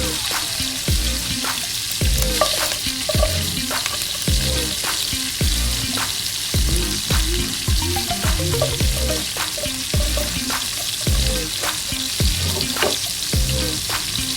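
Hot cooking oil sizzling in a pot after pork has been fried crisp in it, with a spatula scraping and knocking against the pot about once or twice a second.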